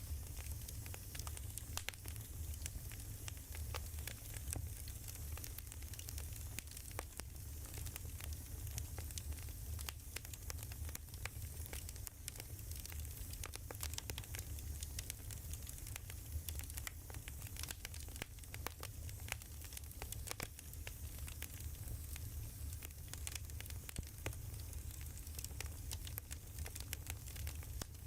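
Wood fire crackling, with frequent irregular small pops and snaps over a steady low rumble.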